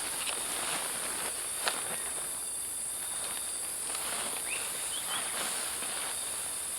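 Steady high-pitched drone of forest insects, with a few soft crackles and a sharp click about a second and a half in, and a couple of brief faint chirps near the middle.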